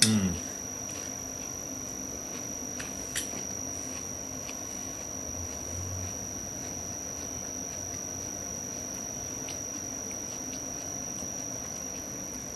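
Room tone: a steady high-pitched whine over a low hiss, with a few faint clicks, the clearest about three seconds in.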